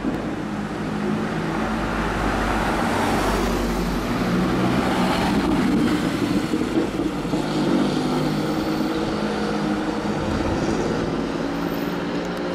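A car engine running, its note building over the first couple of seconds and then holding fairly steady.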